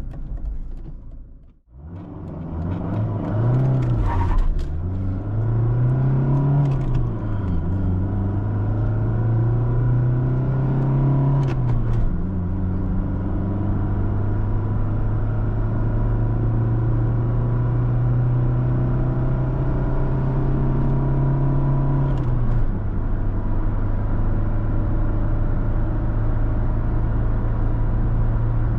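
Mercedes-Benz W202 C-Class 2.2-litre four-cylinder diesel accelerating hard through a five-speed manual gearbox: the engine note climbs, drops back at each upshift, four times, each climb slower and longer than the last, then holds steady in top gear.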